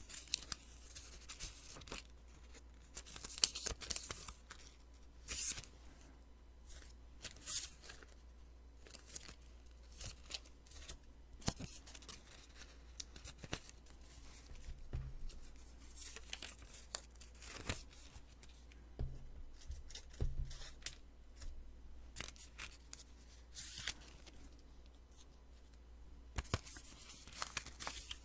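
Post-it sticky notes being peeled off one after another, close to the microphone: short sticky tearing rasps mixed with crisp paper clicks and taps, at an irregular pace.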